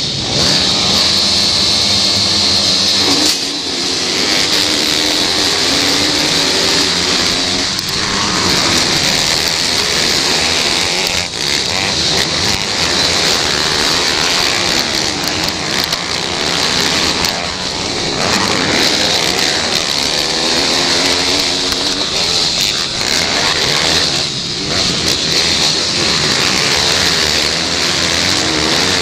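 Pit bike engines racing, their pitch rising and falling as they rev up and ease off, over a steady high hiss.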